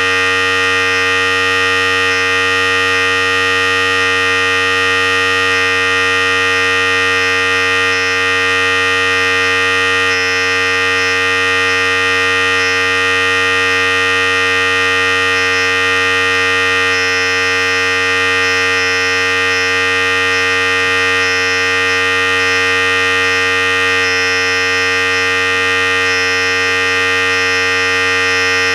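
Philips Series 5000 hair clipper running steadily: a loud, continuous electric buzz that holds the same pitch and level throughout.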